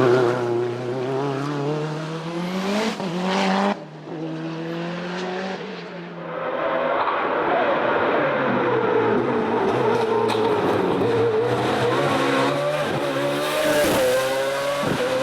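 Racing car engines at full throttle: one engine revs up and cuts off abruptly about four seconds in, then a second engine builds from about six seconds and holds a high, steady pitch with brief dips and rises.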